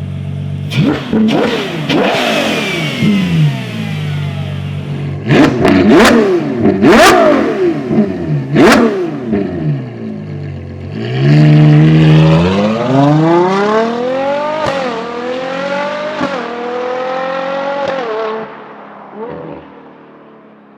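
Ferrari Purosangue's V12 through a Novitec race exhaust, revved up and down several times with sharp exhaust cracks as it comes off the throttle. Then it accelerates hard, its pitch climbing through about three quick upshifts before it fades away.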